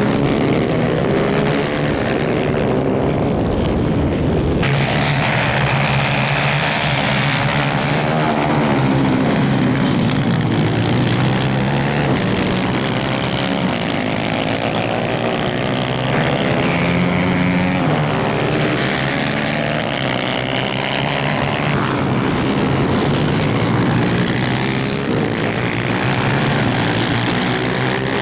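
Several 250cc superkart engines running at race pace, their pitch rising and falling as they accelerate and back off, with more than one engine heard at once.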